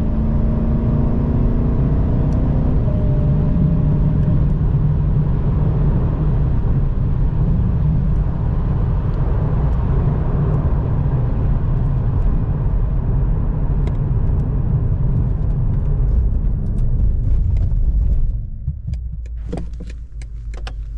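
BMW M8 Competition's twin-turbo V8 with Akrapovic exhaust and downpipes running on the road, a steady low rumble with engine hum and road noise. Near the end the sound drops away, with a few clicks.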